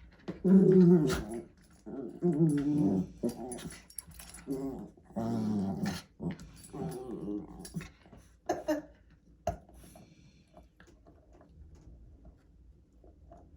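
Pomeranian puppy growling and whimpering in about six short bursts, the first ones loudest, followed by two short sharp sounds about a second apart.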